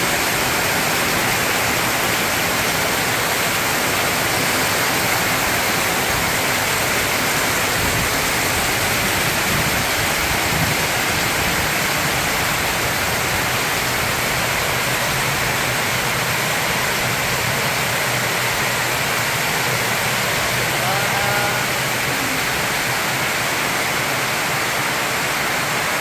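Heavy rain pouring down, a steady unbroken hiss of a tropical downpour.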